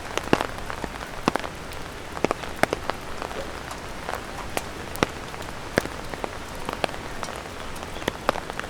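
Light rain falling steadily, with large drops from overhead tree leaves tapping on an umbrella, sharp and unevenly spaced, about two a second.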